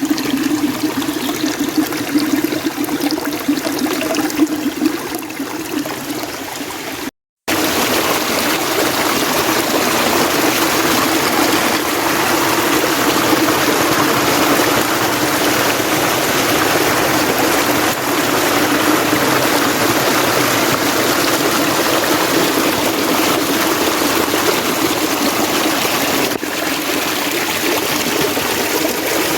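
Mountain stream flowing with a steady rush of water. About seven seconds in, the sound drops out for a moment at an edit and resumes slightly louder and more even.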